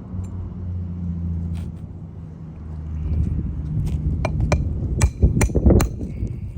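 Hand tools working on roof shingles: a low rumble, then about four seconds in a quick run of sharp knocks and clinks, loudest near the end.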